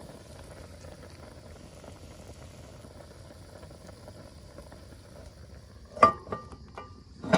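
Meat stew boiling in a pot over a wood fire, a steady bubbling hiss. About six seconds in and again near the end come two sharp metallic clanks with a brief ring.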